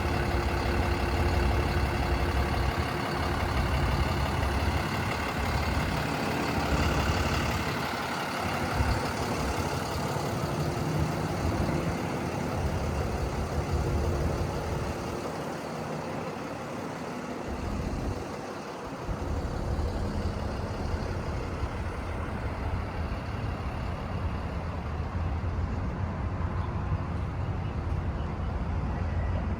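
A 2020 Kenworth T270 box truck's diesel engine running with a steady low rumble that eases off briefly a little past the middle.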